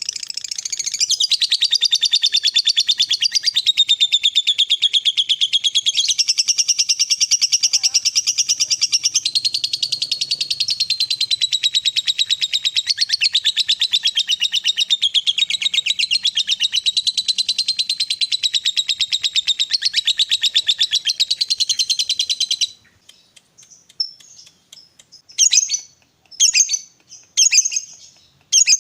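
Lovebird giving a long, unbroken, very rapid chattering trill, the 'ngekek panjang' prized in fighter lovebirds, which stops abruptly after about 22 seconds. Short separate chirping bursts follow, about one a second.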